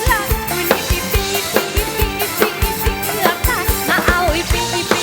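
Live band music: a drum kit plays a steady kick-drum and snare beat under bass and a sliding melodic lead line.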